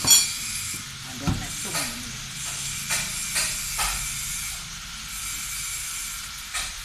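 Metal hand tools and engine parts clinking and knocking during the teardown of a truck diesel engine. A sharp ringing clank comes right at the start, then a few lighter scattered knocks, over a steady hiss.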